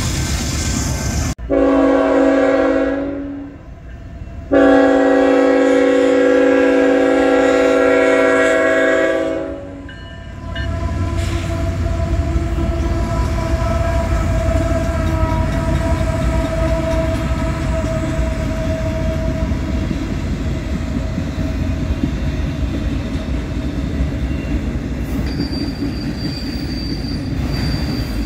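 Freight locomotive horn: a short blast and then a long one of about five seconds. After that comes the steady rumble of a freight train rolling past, with a thin wheel squeal at times.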